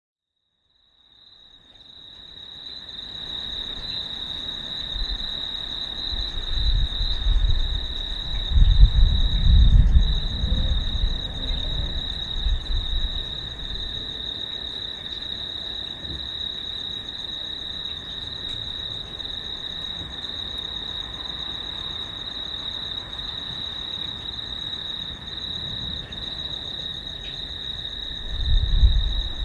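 Steady high chorus of insects chirring, with low rolling thunder rumbling underneath, loudest in a long roll about seven to twelve seconds in and again near the end. The sound fades in over the first couple of seconds.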